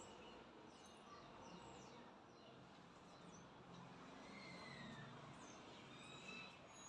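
Near silence: faint background hiss with a few distant birds chirping, short falling calls now and then.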